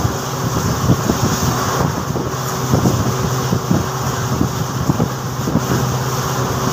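Passenger train coach running at speed: a steady rumbling hum with irregular clatter of wheels on the rails, and wind buffeting the microphone held out of the open door.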